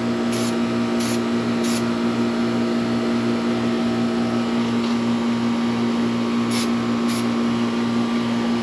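Short hissing bursts from an aerosol spray-paint can, black paint going onto a winch: three quick bursts in the first two seconds and two more near the end. Under them runs a steady machine hum with a rapid pulsing throb.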